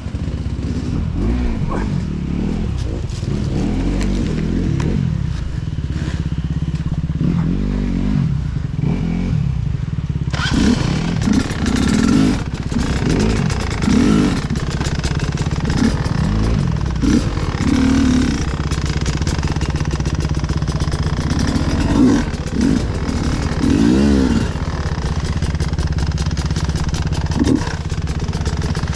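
Off-road enduro motorcycle engine blipping the throttle over and over, its revs rising and falling between steadier running, with clattering from the bike. About ten seconds in, a steady hiss joins it.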